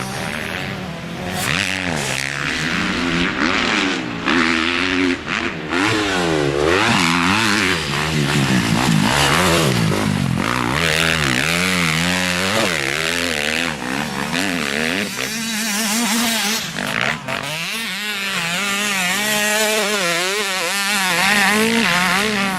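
Motocross bike engine being ridden hard, its pitch rising and falling over and over as the throttle is opened and closed, with a rough noisy edge throughout.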